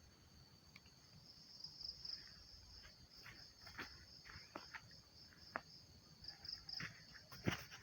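Faint insect chorus: a steady, pulsing high-pitched trill, with scattered light clicks and a sharper knock near the end.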